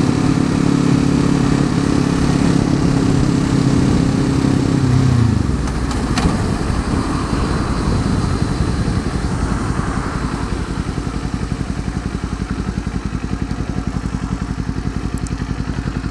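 Kawasaki Z400's parallel-twin engine with an Akrapovic exhaust, running at a steady speed and then dropping in pitch about five seconds in as it settles into an evenly pulsing idle.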